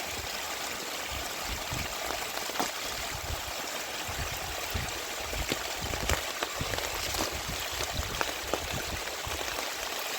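Heavy rain: a steady rushing hiss of falling water with scattered sharp drops and drips.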